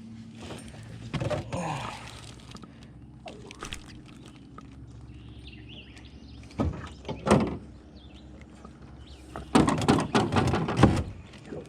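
Knocks and thumps against a small john boat, in three short clusters, the last one the loudest, over a steady low hum.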